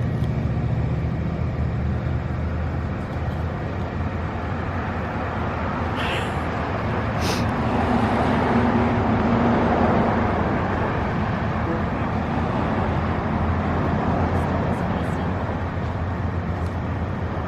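Car on the move: steady engine hum and road noise.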